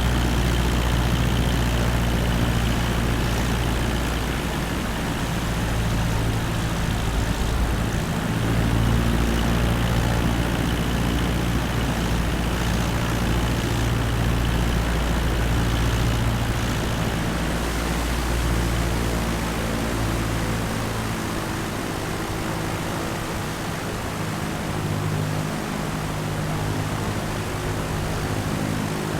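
Cessna 172 single-engine piston engine and propeller droning steadily in cruise, with rushing air noise. The low drone drops a little in level about two-thirds of the way through.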